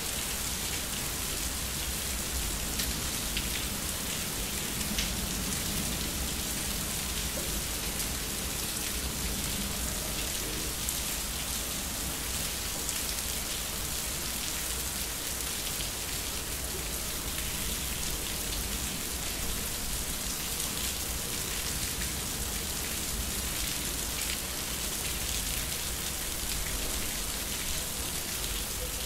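Steady rain falling during a thunderstorm, pattering on concrete as an even hiss with scattered faint drop ticks.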